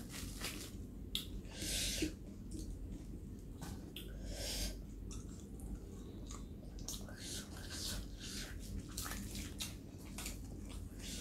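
Close-miked chewing and wet mouth smacking of a mouthful of puri, deep-fried Indian bread, with many small clicks and a few louder smacks, about 2 and 4.5 seconds in.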